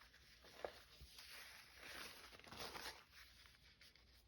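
Near silence, with a few faint soft rustles of paper being handled.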